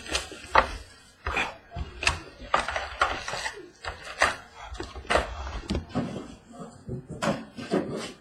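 Trading-card boxes and packs being handled and opened: irregular short knocks, taps and crackles of cardboard and wrapper, about one or two a second.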